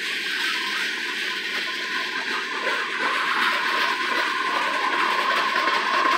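Freight cars of a passing CSX manifest train rolling by: steel wheels on rail making a steady rush that builds in loudness, with a thin steady high tone that grows stronger near the end.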